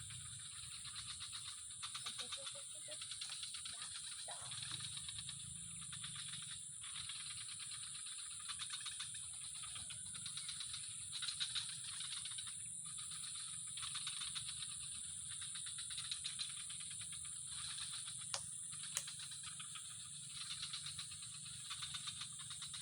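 Animal calls: a steady high-pitched buzz with rapid rattling trills that swell and fade over it every second or two.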